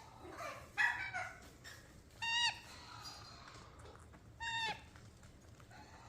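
Pet parrot calling: a short pitched call with a falling end, repeated the same way about every two seconds, and a louder, harsher squawk about a second in.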